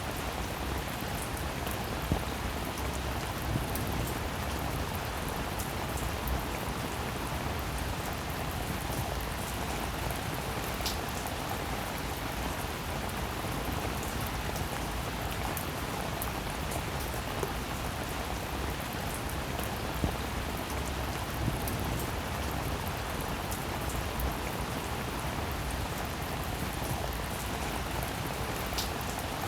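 Steady rain falling and pattering on surfaces, with occasional louder individual drop hits.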